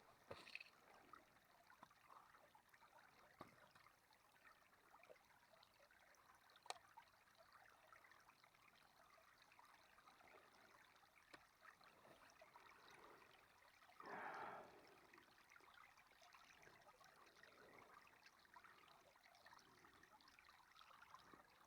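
Near silence: faint outdoor background hiss with a few small clicks and one brief rustle about two-thirds of the way through.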